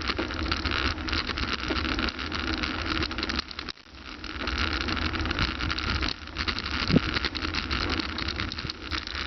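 Bicycle being ridden over rough ground, with dense rattling and clicking of the bike and gear, and wind rumbling on the microphone.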